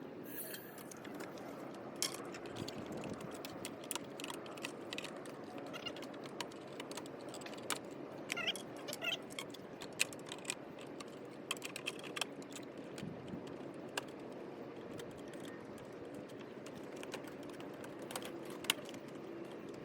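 Irregular light clicks and taps, a few at a time, over a steady low hum, with a few faint high chirps around the middle.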